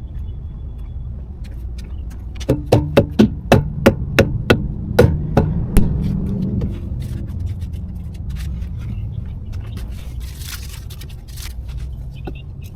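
Low steady rumble with a quick series of about a dozen sharp knocks a few seconds in.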